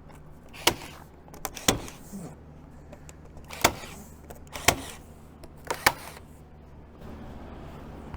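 A staple gun driving staples through a cardboard splint into a wooden target frame: about five sharp clacks roughly a second apart, with a few fainter clicks between them.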